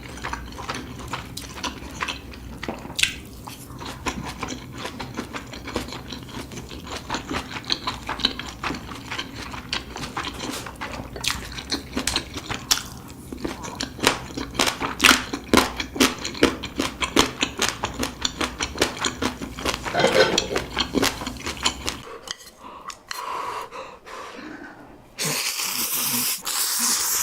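Close-miked chewing of crunchy kimchi: a dense run of crisp, irregular crunches. Around 22 s the crunching fades, and near the end there are a few seconds of steady hiss-like noise.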